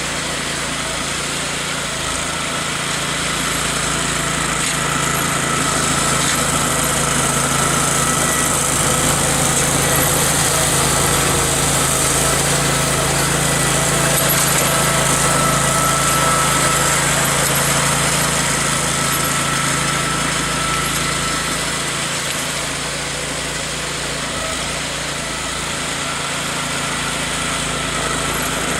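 Garden tractor engine running steadily while driving a snowblower attachment through snow, growing a little louder in the middle of the stretch.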